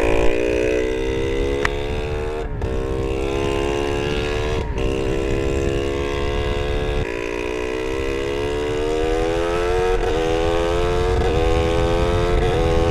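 Kawasaki Ninja 150 R's two-stroke single-cylinder engine running under way at speed with a loose exhaust. Its pitch climbs with several brief breaks, dips about seven seconds in, then climbs again, over wind rush on the microphone.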